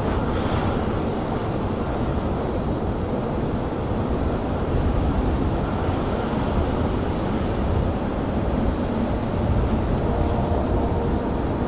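Steady low rumble of railyard ambience, with a faint steady high whine over it. A brief burst of rapid high ticks comes about three quarters of the way through.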